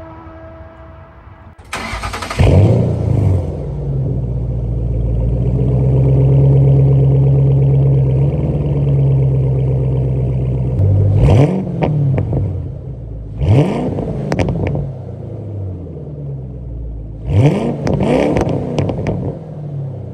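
2006 Ford Mustang with a Roush Extreme axle-back exhaust, cold-started: the engine catches sharply about two seconds in and settles into a steady fast idle. It is then revved three times, the idle dropping back between revs.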